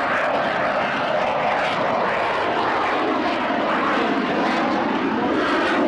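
Aircraft engine noise from a display aircraft flying during an air show performance, a steady loud rush with slowly shifting pitch.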